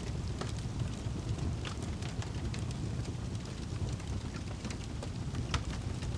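Wood fire burning in a fireplace: a steady low rumble with frequent sharp crackles and pops, one louder pop near the end.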